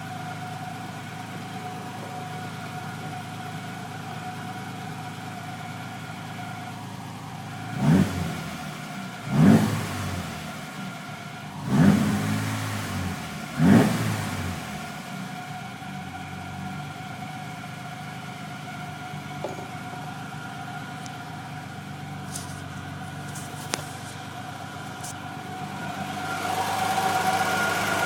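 BMW E21's engine idling warm with a steady high-pitched whine over it, blipped four times in quick succession about a third of the way in, then brought up more slowly near the end. This is the strange noise that appears when the engine is hot.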